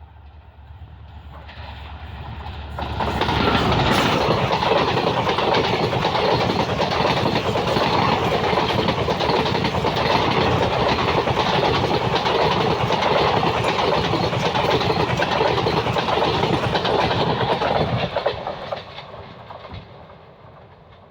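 An express passenger train passing close by, hauled by a WDP4D diesel locomotive, its coaches' wheels clattering over the rail joints. The sound builds over the first three seconds, stays loud for about fifteen seconds, then fades away near the end.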